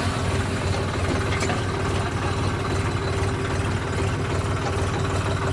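Swaraj 855 FE tractor's three-cylinder diesel engine idling steadily, an even low rumble.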